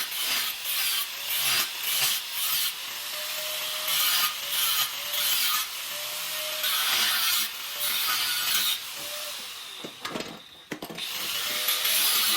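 Hand-tool work in an exhaust workshop: repeated rasping strokes, about one a second, with short squeaks between them.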